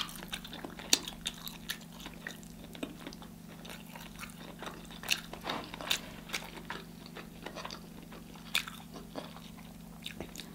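Close-miked biting and chewing of sauce-coated corn on the cob: a run of sharp, crunchy clicks and wet mouth sounds.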